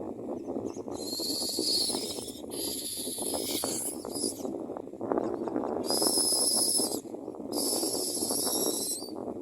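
Common myna nestlings giving harsh, wheezy begging calls in four bursts of a second or two each, over a steady low rustling crackle.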